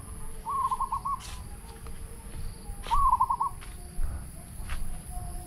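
A bird calling twice, each time a quick run of four or five short whistled notes, over a low rumble of wind or handling.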